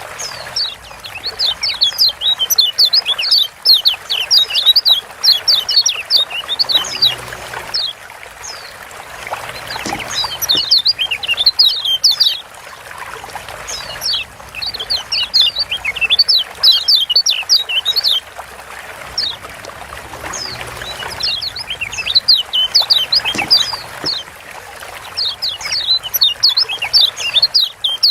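Kecial kuning (Lombok white-eye) calling in fast runs of high, quick chirps, each run lasting two to four seconds with short gaps between, over a steady trickle of water.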